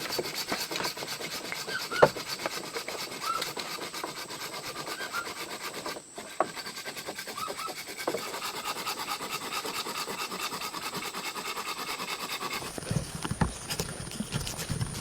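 Rainforest ambience: insects buzzing with a steady high whine, short chirping animal calls scattered throughout, and a few sharp knocks.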